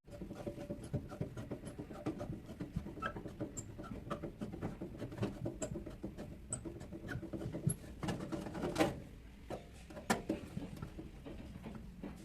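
Small irregular clicks, taps and scrapes of hands and tools working on a hot air oven's metal casing while it is taken apart, with two louder knocks about nine and ten seconds in.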